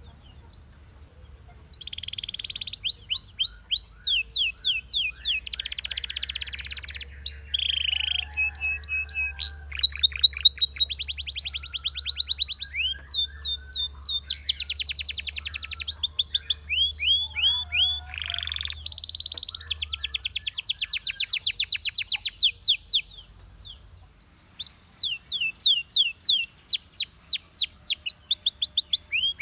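Belgian canary singing: rapid rolling trills of repeated high notes, one run after another, starting about two seconds in with a short pause near the end.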